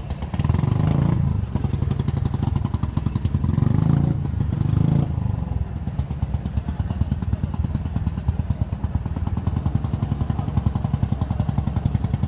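A vehicle engine idling with a rapid, even pulse, revved up briefly twice: once near the start and again from about three to five seconds in.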